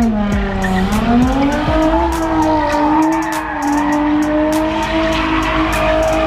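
A car's V6 engine held at high revs while its tires squeal, the car sliding in a spin. The engine note dips briefly about half a second in, then climbs back and holds steady.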